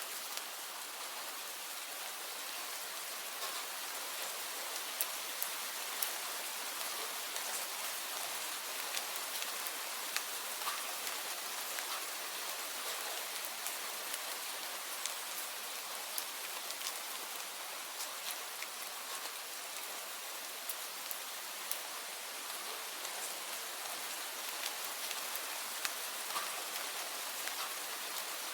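Steady rain falling, an even hiss with many distinct drops tapping sharply on a surface.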